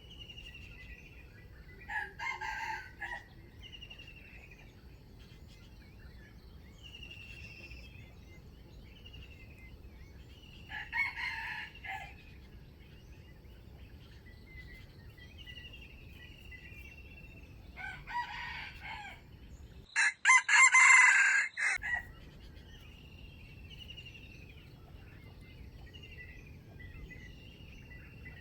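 Wild red junglefowl roosters crowing, one short crow every several seconds, the loudest and closest about twenty seconds in. Between the crows another bird repeats a short falling chirp.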